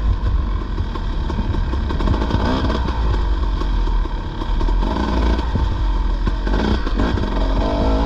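Dirt bike engine running under way on a rough trail, its revs rising and falling with the throttle.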